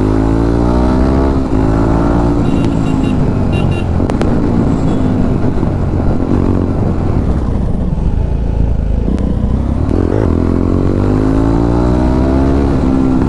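Jawa 42 motorcycle engine running through an aftermarket silencer while riding. Its pitch rises and falls with the throttle in the first second or so and again in the last few seconds, with a rougher, steadier stretch between.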